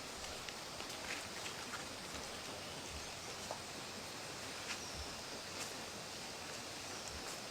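Steady outdoor hiss with scattered light rustles and small clicks.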